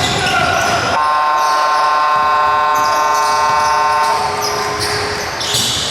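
Basketball arena horn sounding one steady, held tone for about three and a half seconds, starting about a second in, over the noise of the arena crowd.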